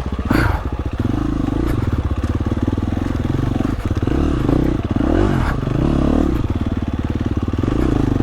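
Off-road dirt bike engine running hard on rocky single track, revving up and down several times with the throttle, with some clatter from the bike over rocks.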